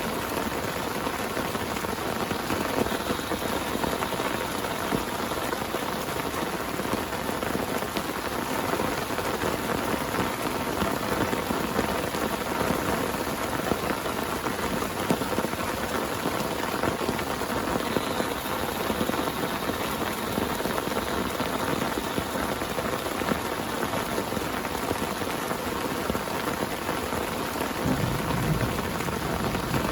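Heavy rain falling steadily on a tent, a dense, even patter of drops. A brief low rumble comes in near the end.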